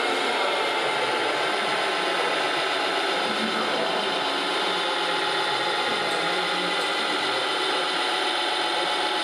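Steady whirr of the small electric motors and gearboxes of radio-controlled model trucks and construction machines running.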